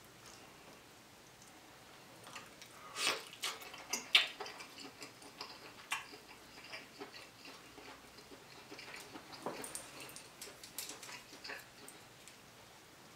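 Close-miked chewing of king crab meat: scattered wet mouth smacks and clicks, loudest about three to four seconds in.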